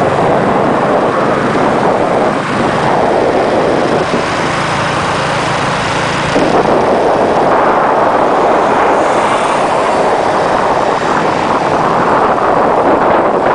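Steady rush of wind on the microphone mixed with vehicle engine and road noise, typical of riding on a motorcycle, getting louder about six seconds in.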